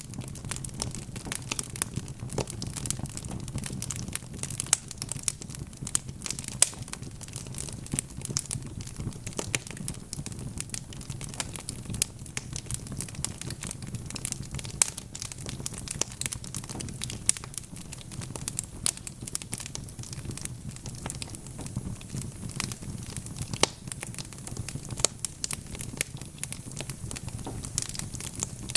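Wood fire burning in a fireplace: a steady low rush of flames with dense, irregular crackles and pops from the burning logs.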